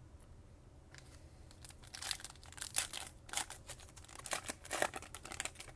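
A trading-card pack's plastic wrapper being torn open and crinkled: a quick run of sharp crackles starting about a second in, loudest just under halfway through.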